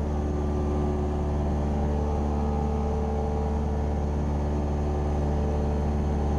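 Cessna 172R Skyhawk's four-cylinder Lycoming IO-360 engine and propeller running steadily in flight, heard from inside the cockpit.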